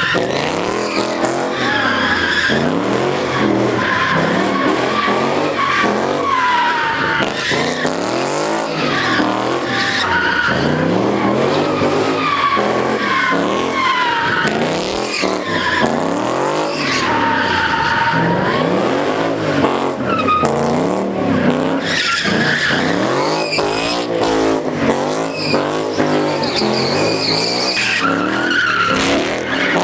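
Car engine revving up and falling back over and over while its tyres squeal and screech without letup, as in drifting or donuts.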